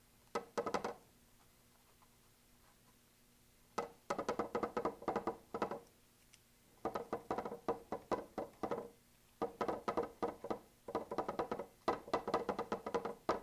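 Paintbrush dabbing against a stretched canvas, quick runs of taps several to the second with short pauses between, the canvas ringing like a small drum.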